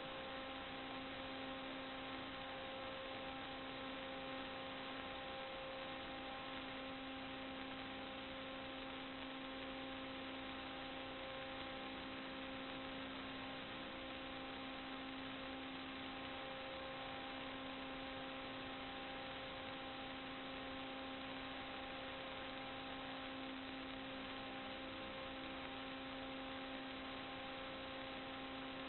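Steady electrical hum with a constant hiss, several even tones held unchanged throughout.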